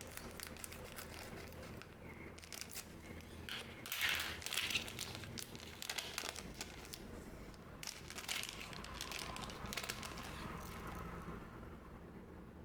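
Booster pack wrappers crinkling as they are handled, in irregular bursts, loudest about four seconds in.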